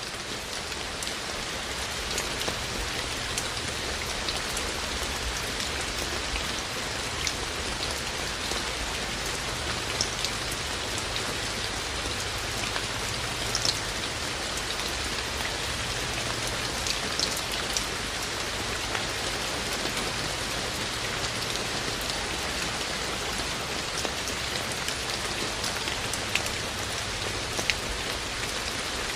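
Steady rain falling, an even hiss with many scattered raindrops ticking sharply over it. It swells up over the first couple of seconds, then holds steady.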